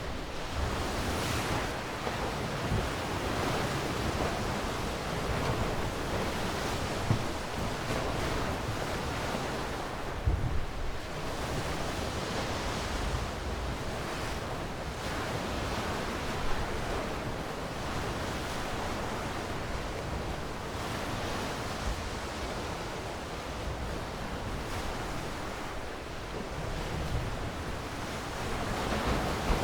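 Sea waves washing onto a shore in a steady surf that slowly swells and eases. A few brief low thumps of wind on the microphone come about seven and ten seconds in.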